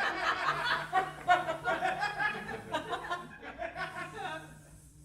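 Live audience laughing, dying down near the end.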